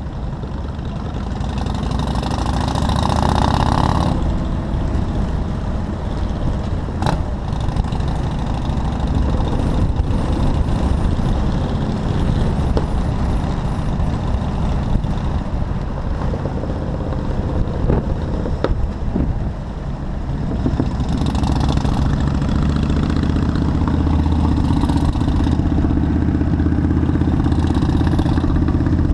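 Motorcycle engine running while riding through city traffic, with road and wind noise. The engine gets louder and fuller about two-thirds of the way through.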